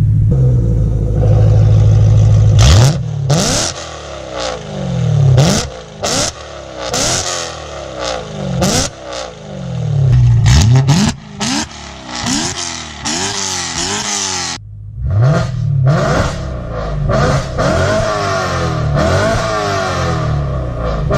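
BMW E92 M3's 4.0-litre V8 with a straight-piped, decatted valved exhaust, valves open. It idles, then is revved again and again in short blips, the pitch shooting up and falling back each time.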